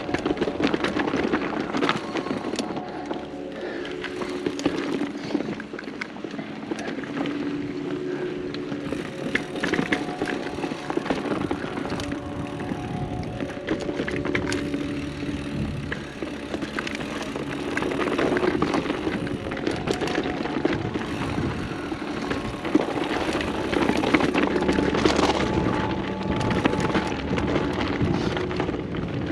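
Mountain bike riding down a dirt singletrack: tyres rolling over dirt and rocks, and the bike rattling over bumps with many sharp clicks and knocks.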